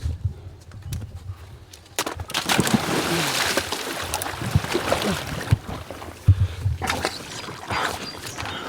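Boots wading and splashing through a shallow creek, water sloshing around each step. There are heavy low steps near the start and again around two-thirds of the way through, with a longer stretch of splashing from about two seconds in.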